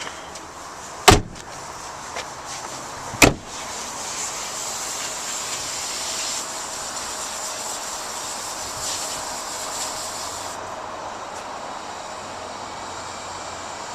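Two sharp thumps of a pickup truck's doors being shut, about two seconds apart, followed by a steady rushing noise.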